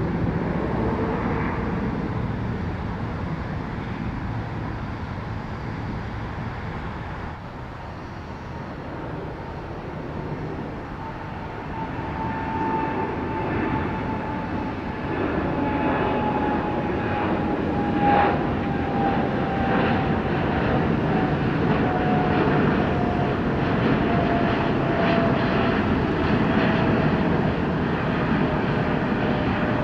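Jet aircraft engines on departure, the roar building through the second half, with a thin turbine whine that slides slowly down in pitch as the plane passes.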